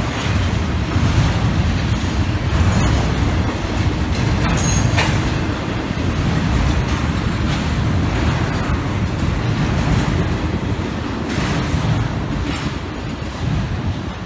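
A train rolling past close by: a steady heavy rumble with the clicking of wheels over the rails.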